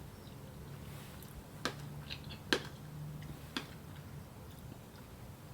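Three sharp clicks of kitchen utensils at work, about a second apart, over a faint low hum.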